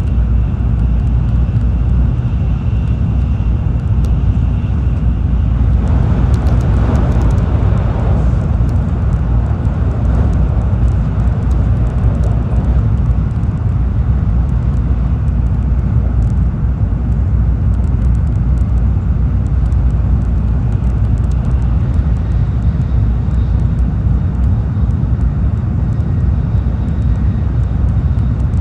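Steady low rumble and rush of a Tokaido Shinkansen train running at speed, heard inside the passenger cabin, with a louder hissing rush for a couple of seconds about six seconds in.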